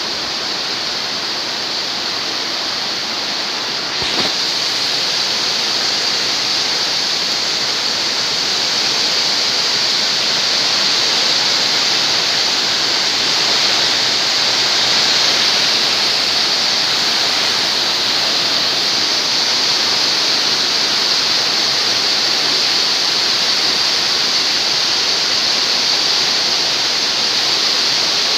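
Strong wind blowing hard and steadily with a loud, hissing rush. A short click comes about four seconds in, after which the wind grows a little louder.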